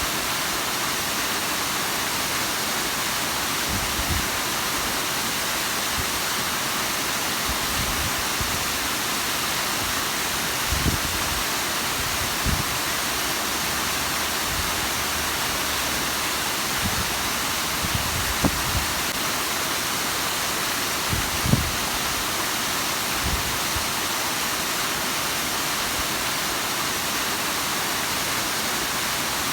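Bigăr waterfall: a steady, dense rush of falling water. A few short low thumps come and go through it, the strongest about three-quarters of the way in.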